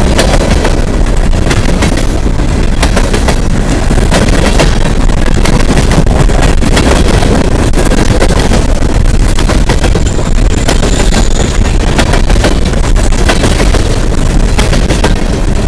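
Empty coal hopper cars of a freight train rolling past at close range: a steady rumble of steel wheels on rail, with rapid clattering and banging as the wheels cross joints and switchwork and the empty car bodies knock.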